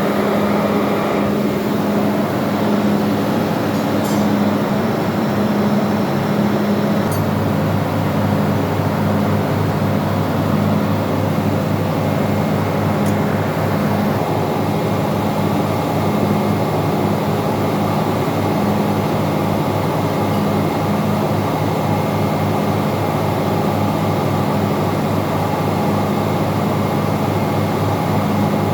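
Steady drone of ship's engine-room machinery, with a pulsing hum and a deeper low hum that comes in about seven seconds in.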